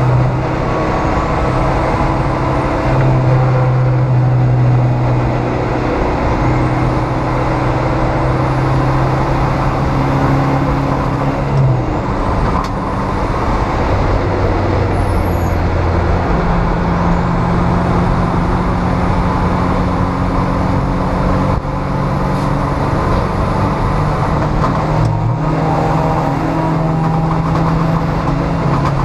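Neon race car's four-cylinder engine running hard on track, heard from inside the cabin over loud road and wind noise. Its pitch holds steady for stretches and steps down or up a few times as the car brakes and accelerates.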